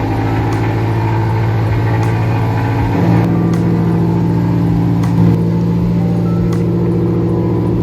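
Car engine running steadily just after starting, its pitch stepping up a little about three seconds in.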